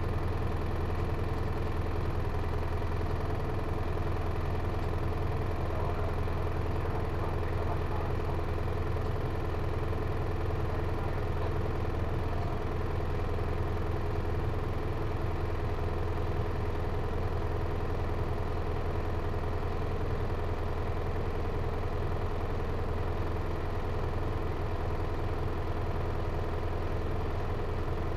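Hino Liesse minibus's J05C four-cylinder diesel engine running at an even speed, a steady low hum heard from inside the passenger cabin.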